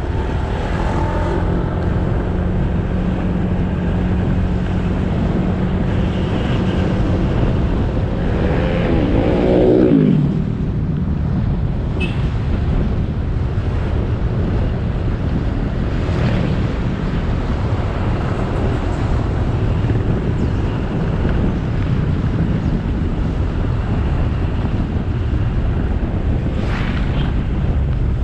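Motorbike riding through traffic: a steady engine hum under heavy wind noise on the helmet or handlebar camera microphone. About nine seconds in, an engine note sweeps sharply down in pitch, the loudest moment, as a vehicle goes by close or the engine drops its revs.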